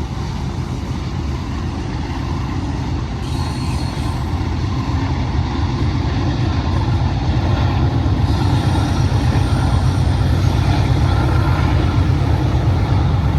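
Several Union Pacific diesel locomotives working hard under load: a deep, steady engine rumble that grows louder as they approach.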